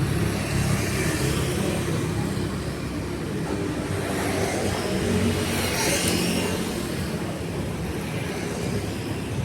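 Street traffic: engines running close by with a steady low hum, and a vehicle's tyres hissing past on the wet road about six seconds in.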